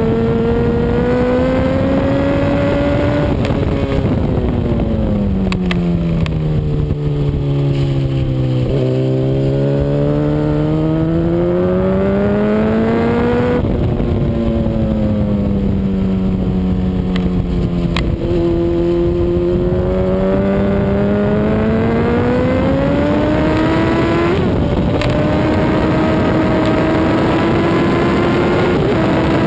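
Honda CBR RR sportbike's inline-four engine at racing speed, its note rising and falling in long sweeps as the bike accelerates and slows for corners, with an upshift near the end, over a steady rush of wind.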